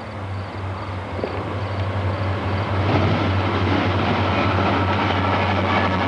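Diesel locomotive engine running with a steady low drone that grows louder through the clip, as the train approaches.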